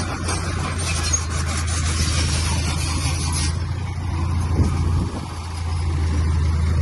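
Heavy diesel engine of earthmoving machinery running steadily, with a hissing, clattering noise over it that cuts off abruptly about three and a half seconds in.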